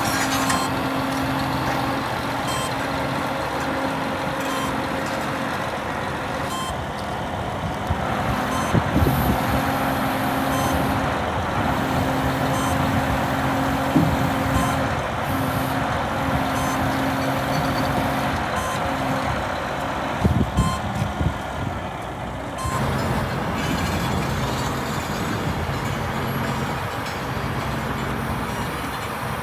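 Scania R480 crane truck's diesel engine running, with a held tone that comes and goes and a few clunks along the way.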